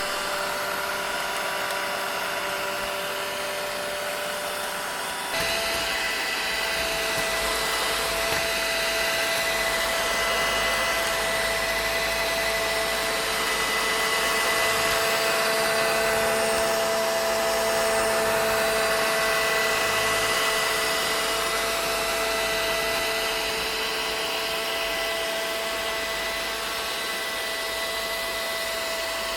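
Vacuum cleaner motor running steadily: a continuous rushing hiss with a whine over it. About five seconds in, the whine jumps abruptly to a slightly higher pitch and the sound gets a little louder.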